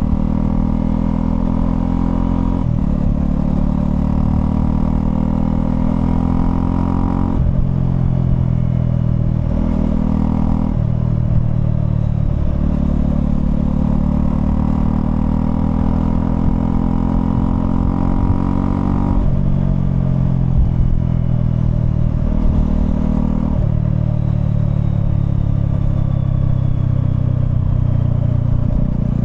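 Honda CL250's single-cylinder engine under way, heard from on the motorcycle: the engine note climbs steadily as it pulls, then changes abruptly several times as the rider shifts gear or rolls the throttle on and off. A low rush of wind runs underneath.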